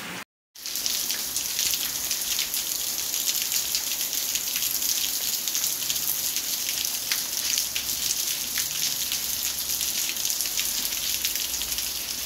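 Heavy rain falling steadily: a dense hiss with many sharp ticks of drops striking close by. It follows a brief moment of silence just after the start.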